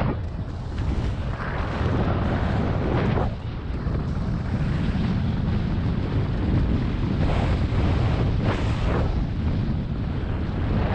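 Wind buffeting a GoPro microphone while skiing, a steady low rumble, with skis hissing and scraping over spring snow on several turns.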